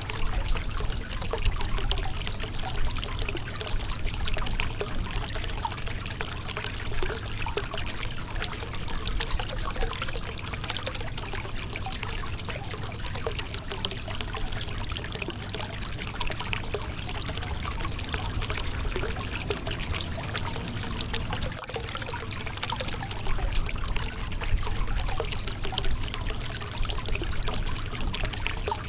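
Shallow river water flowing and splashing over a rocky bed, a steady rushing trickle with a low rumble underneath.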